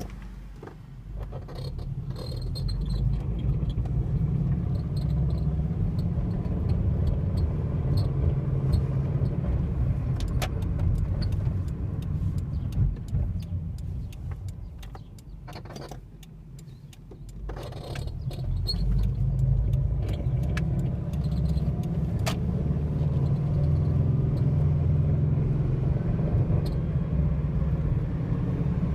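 A car driving: a low rumble that builds over the first few seconds and holds steady, dies down for a few seconds past the middle, then builds up again, with scattered light clicks.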